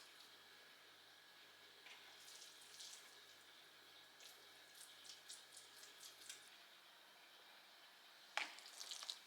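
Near silence: quiet room tone with faint scattered small clicks and light taps, and a slightly louder clatter of taps about eight seconds in.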